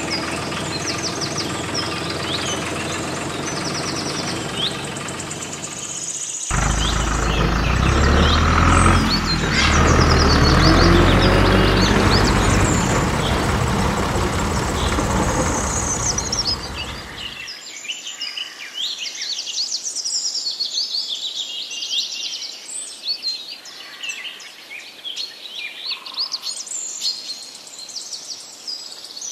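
Birds chirping throughout. For the first six seconds a small motor runs with a steady hum. Then a loud, low rumbling noise takes over for about eleven seconds and cuts off suddenly, leaving the birdsong.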